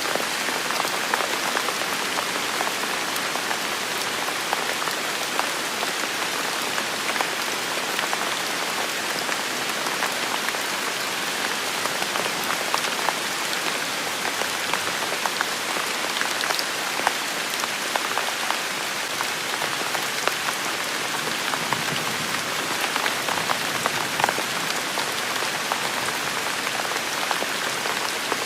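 Steady rain falling and pattering on hard surfaces, with many scattered individual drop impacts.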